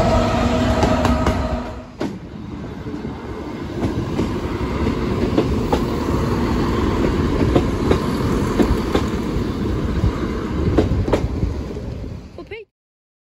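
Train passing over a level crossing: a steady engine note drops away about two seconds in, leaving the rumble of wheels with scattered clicks over the rail joints, until the sound cuts off abruptly near the end.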